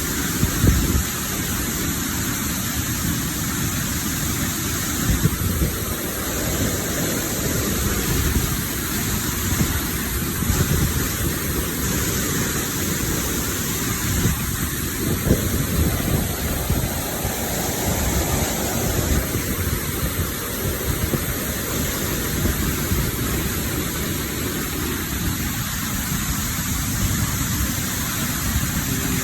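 Waterfall: a steady rush of falling water, heavy in the low end, swelling and easing slowly.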